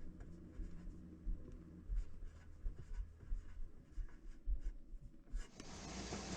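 Light scraping, rubbing and small knocks of hands working on sink drain pipe fittings. A steady hiss starts about five and a half seconds in.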